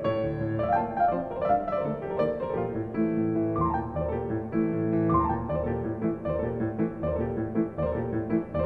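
Background piano music with flowing runs over a steady bass.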